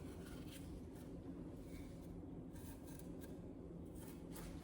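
Faint soft scraping and rubbing as excess mortar is cleaned off the joints of freshly laid masonry blocks, a few light strokes spread through, over a steady low hum.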